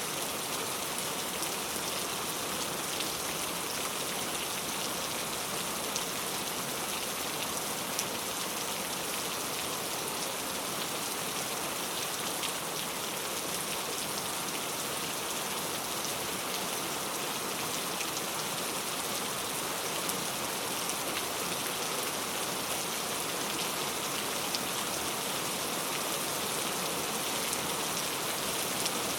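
Steady rain falling, a dense even hiss of drops with fine patter on a surface.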